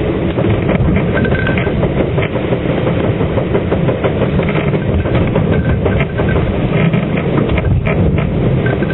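Loud, steady rushing of a rain squall on a sailing catamaran: rain and spray spattering on the cabin window, with many small clicking hits over the noise of wind and sea.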